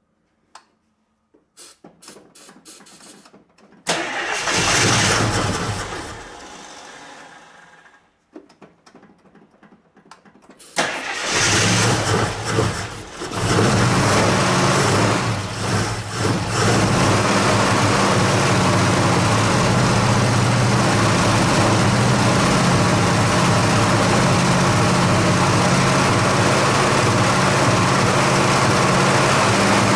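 A carbureted 1969 AMC Javelin 290 V8 is cold-started after months of sitting. It catches briefly about four seconds in and dies away, then fires again near eleven seconds, stumbles and revs a few times, and settles into a steady idle.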